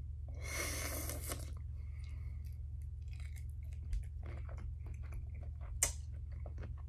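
Close-up chewing of a large cooked shrimp dipped in cocktail sauce: a louder bite in the first second and a half, then soft chewing clicks, one sharper click near the end, over a steady low hum.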